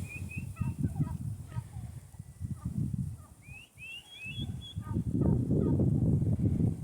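Wild turkeys calling: short, high-pitched rising peeps in two quick clusters, near the start and about three and a half seconds in, typical of the hens' young poults. Low rumbling noise on the microphone runs underneath and grows louder near the end.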